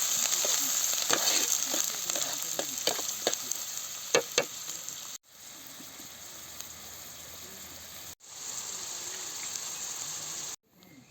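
Food frying in a pan, sizzling, with a utensil stirring and knocking against the pan in quick clicks, two sharp knocks the loudest a little after four seconds. About five seconds in the sound cuts off abruptly and returns as a quieter steady sizzle, which breaks off twice more.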